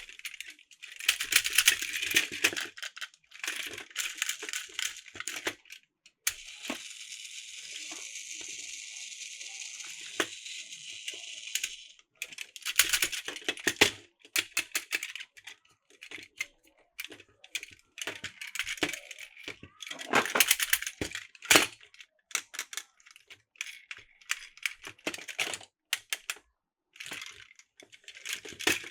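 Plastic Plarail toy track and building pieces clicking and rattling as they are handled and snapped together. A steady hiss runs for about six seconds in the middle.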